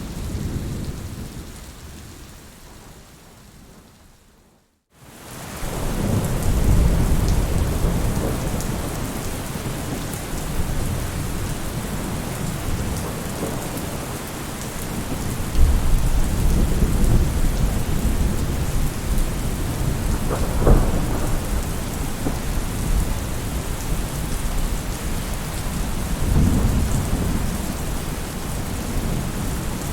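Steady rain with rolling thunder rumbling again and again, and a sharper clap about twenty seconds in. The sound fades away over the first few seconds to a brief dead silence, then comes back in.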